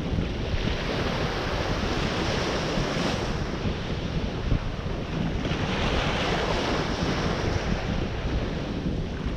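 Ocean surf breaking and washing on the shore, swelling every few seconds, with wind buffeting the microphone as a low rumble.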